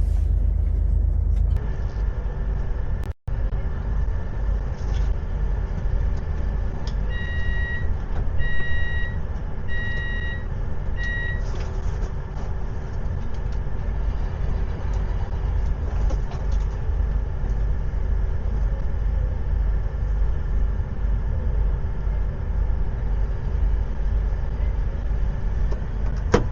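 Steady low rumble and hum of a moving passenger train. Four high electronic warning beeps come in a row, roughly one a second, about seven seconds in.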